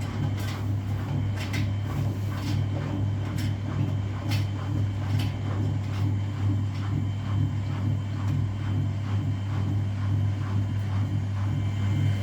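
Front-loading washing machine running mid-wash, with a steady low motor hum. Regular light clicks and knocks come about once or twice a second as the drum turns.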